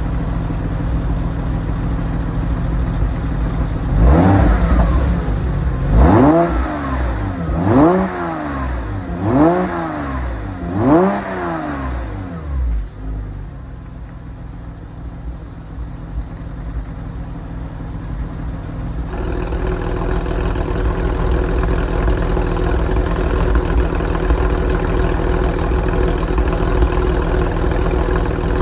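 Porsche 996 flat-six idling through a variable-valve aftermarket exhaust, then blipped five times in quick succession, each rev rising and falling back. It settles to a quieter idle, and about two-thirds of the way in the exhaust note turns louder with a steady drone.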